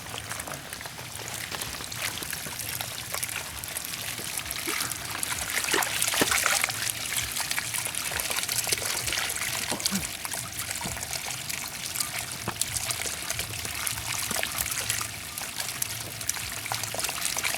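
Water trickling and splashing, with many small splashy ticks; it swells briefly about six seconds in.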